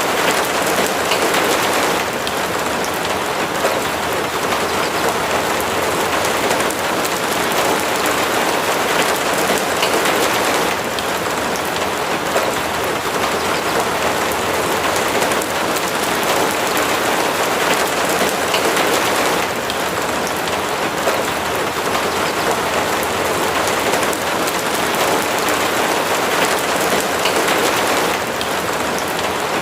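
Steady rain falling, a dense, even hiss of drops, its level dipping and swelling slightly a few times.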